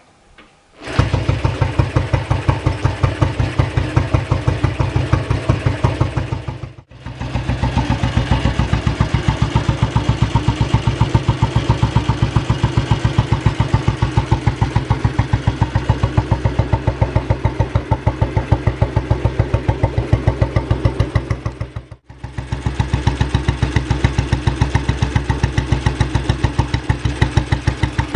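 A motorcycle engine idling with an even, pulsing beat. It comes in about a second in and cuts out briefly twice before running on.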